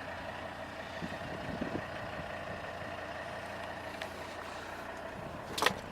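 Vehicle engine idling steadily, with one brief sharp click about five and a half seconds in.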